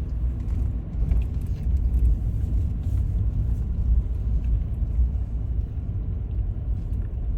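Steady low road and engine rumble heard from inside a moving vehicle's cabin.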